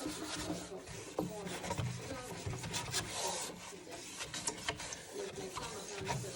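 Paper towel rubbing and wiping over the glass door of a Handöl wood stove, an uneven scrubbing as the glass is polished clean.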